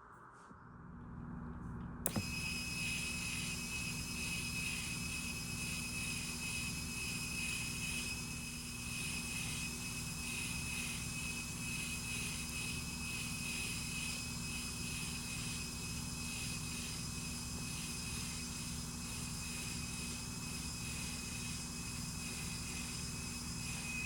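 Radio-controlled semi-truck running steadily: a low, evenly pulsing engine-like drone fades in, and after a click about two seconds in, a high steady whine joins it.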